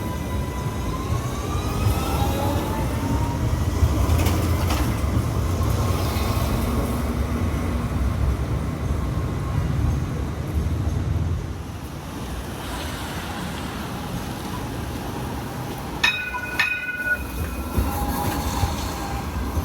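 Sydney light rail tram pulling away, its motor whine rising in pitch over the first two seconds, over a rumble of wheels on track that fades about eleven seconds in. Around sixteen seconds in comes a brief ringing of steady tones with a few clicks.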